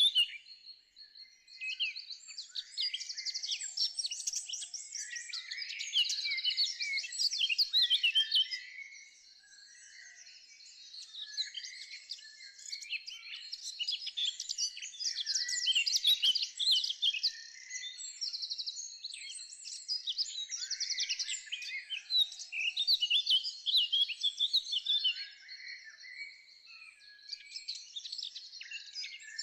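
A chorus of many small birds singing together, a dense run of rapid chirps and trills, briefly quieter about a third of the way in.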